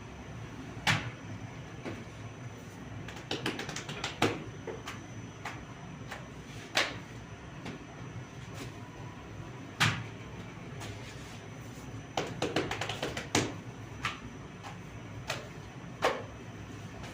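Irregular knocks and taps, some single and sharp, others in quick clusters, over a steady low background hum.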